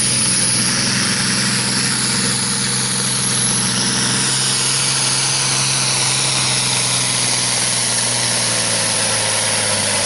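Farm stock diesel tractor engine running hard and steady under load while pulling the weight sled, with a faint high whine above the engine note.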